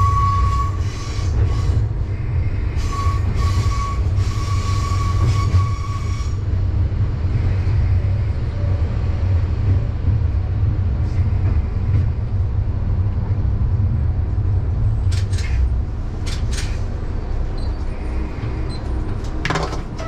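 Diesel railcar running slowly over curved track and points into a station: a steady low rumble of engine and wheels, with a thin wheel squeal coming and going in the first few seconds and a few sharp clicks later on.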